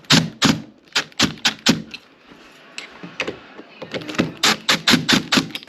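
Door knob and latch hardware being worked, sharp metal clicks and knocks in quick runs: about seven in the first two seconds, then after a pause about nine more from about four seconds in.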